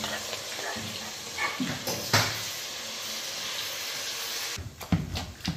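Hot oil sizzling steadily as onions and chopped fresh pepper fry in a pot; the sizzle cuts off suddenly about four and a half seconds in, followed by a few light clicks.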